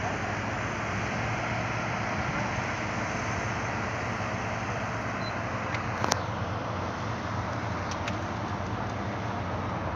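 Heavy truck engine running steadily with a constant low hum, as a loaded truck climbs a steep grade. A sharp click comes about six seconds in, and a fainter one about two seconds later.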